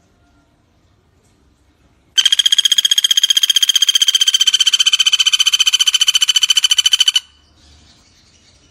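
Common flameback woodpecker (pelatuk bawang) giving one long trill of rapid, even notes at a steady pitch, about eleven a second. It starts about two seconds in and lasts about five seconds.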